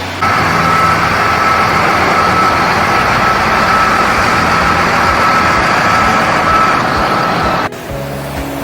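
Loud, steady machine noise with a high whine running through it, starting suddenly and cutting off sharply near the end.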